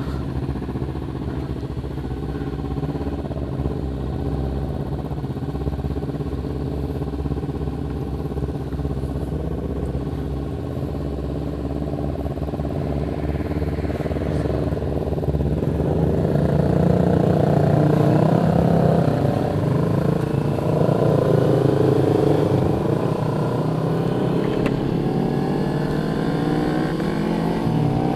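Motorcycle engine running while riding, with road and wind noise. It gets louder about halfway through, and the engine note rises and falls in the second half.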